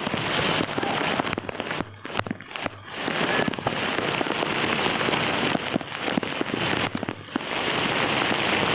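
Heavy rain falling, with many sharp, crackly drop impacts. It thins briefly a few times, then runs steadier and a little louder near the end.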